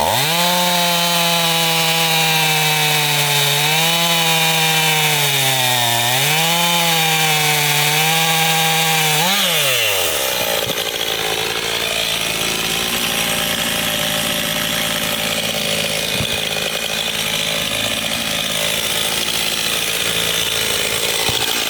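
Two-stroke chainsaw running at high speed through a cut, dipping in pitch twice as it bogs under load. About nine seconds in, the revs fall away and its engine note stops. A steady, rough sawing noise carries on for the rest.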